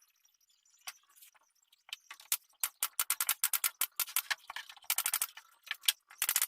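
Quick, irregular clicking and rattling, sparse at first and coming thick and fast from about two seconds in, mostly high with little low sound.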